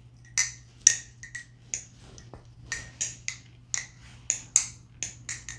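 MachineWise Mayrn Lite balisong being flipped: a run of sharp metallic clacks, each with a brief ring, as the aluminum handles swing around the pivots and strike each other, irregular, about two a second.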